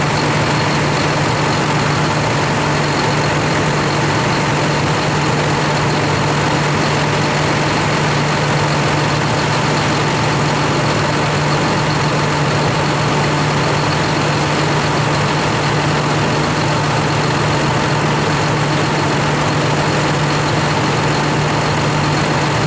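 Heavy diesel machinery of a forage-harvesting operation running at a constant speed: a steady low drone with a thin, unchanging whine above it.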